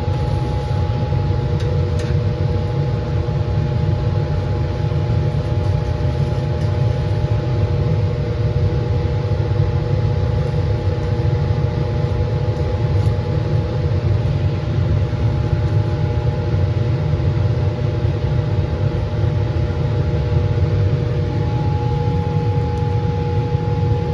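Laminar flow hood's blower fan running steadily: an even roaring with a faint steady hum in it.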